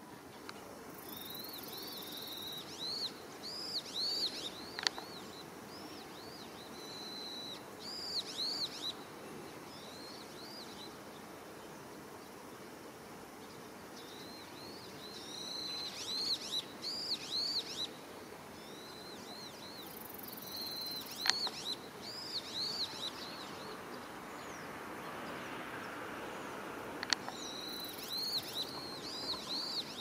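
A small bird singing in repeated bouts of short, quick arched chirps, with pauses of a few seconds between bouts. A brief high hiss comes three times, and a few sharp clicks are heard.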